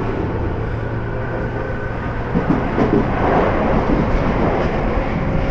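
Train running along the track: a steady low hum and rumble, with a stretch of rattling clatter around the middle.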